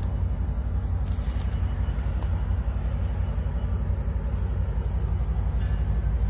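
Metra commuter train's diesel locomotive approaching, a steady low throbbing rumble that grows slightly as it nears, with a faint high ringing tone coming in near the end.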